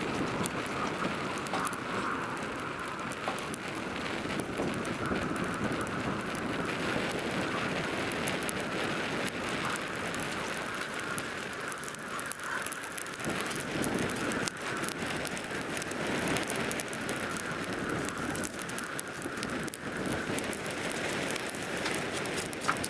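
Hardwood fire burning in a homemade assembled camp stove, a steady hiss with many small crackles and snaps throughout.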